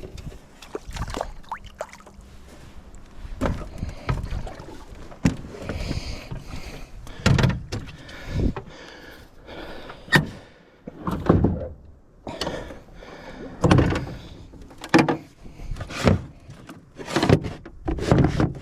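Irregular knocks and clunks of things being handled in a small boat, about one every second or two, with some rustling between them.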